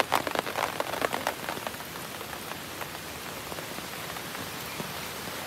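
Rain falling, with a quick run of close, sharp drop hits in the first second or so, settling into an even, steady hiss.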